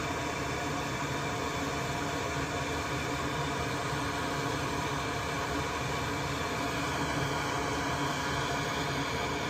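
Steady whirring hum of a small fan-driven machine on the workbench, running evenly without change.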